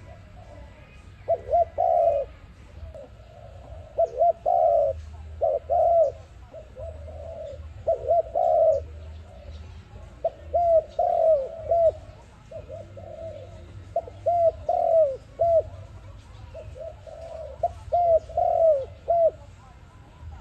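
Dove cooing in repeated phrases of several short coos, a phrase every second or two, over a low steady hum.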